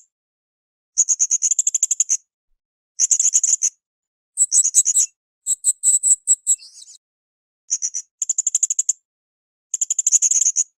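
Blue-crowned hanging parrot (srindit) calling in repeated bursts of rapid, shrill chirps, about ten a second. Each burst lasts about a second, with short silent gaps between bursts.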